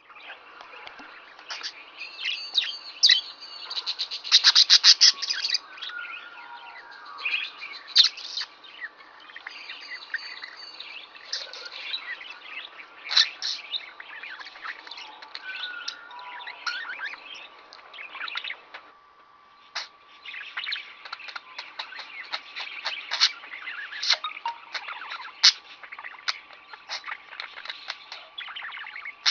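Pet budgerigar chattering: a busy, continuous warble of chirps, clicks and squeaks, with a run of rapid loud clicks about four seconds in and a short lull about two-thirds of the way through. A faint steady tone runs underneath.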